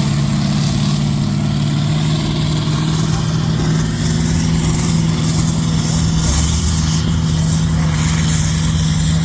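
Farm tractor engine running at a steady speed, holding one even note. A deeper low note joins about six seconds in.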